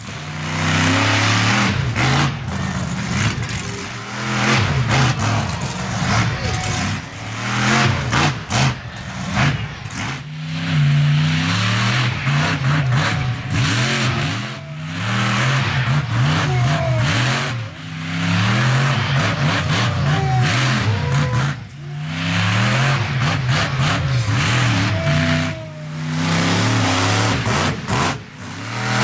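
Monster truck engine revving hard again and again. Its pitch climbs and falls repeatedly, with brief lifts off the throttle every few seconds.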